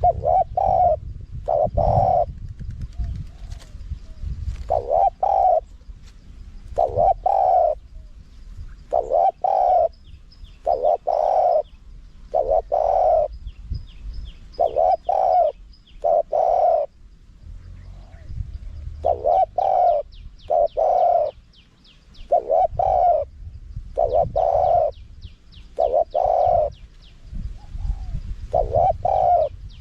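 Spotted dove cooing: short, even coo notes in phrases of two or three, repeated every few seconds, in a high-pitched ('small-voiced') wild-type call. Faint high chirps of small birds and a low rumble sit behind it.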